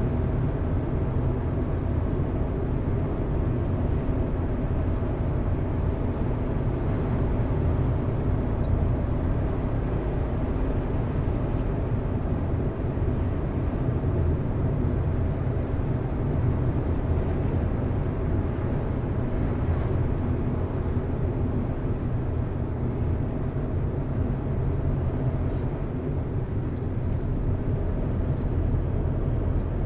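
Car driving at a steady speed: an even, low hum of engine and tyre noise on the road.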